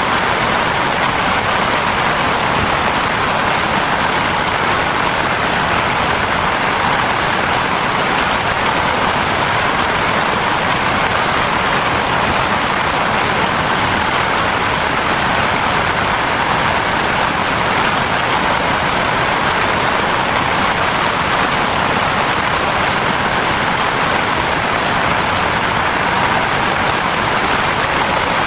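Heavy rain falling steadily, an even, unbroken hiss that does not let up.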